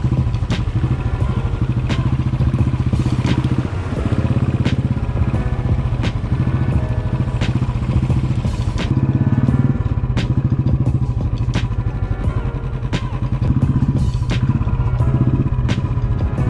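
Motorcycle engine running steadily while riding, with frequent short knocks and clatter over it.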